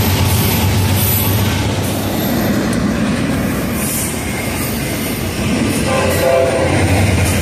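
Double-stack container freight train rolling past at close range: a steady rumble and rattle of steel wheels on the rails.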